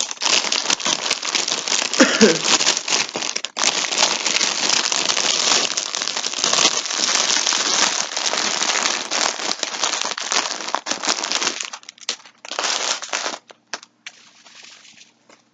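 Packaging crinkling and rustling as skeins of yarn are handled, continuous for about eleven seconds, then only a few short rustles near the end.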